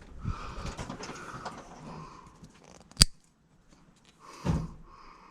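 Handling noise from working on the wiring, with a single sharp snip from hand cutters about three seconds in and a duller knock about a second and a half later.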